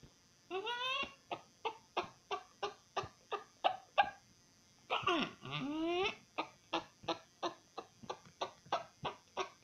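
A person imitating a chicken: a rising squawk followed by a run of quick clucks, about three or four a second, done twice.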